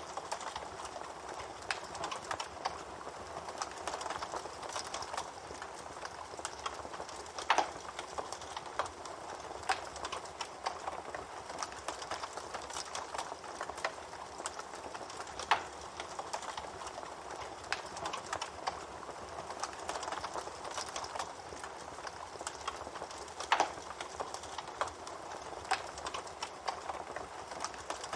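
Campfire burning, the wood crackling and hissing steadily with scattered sharp pops, three of them much louder.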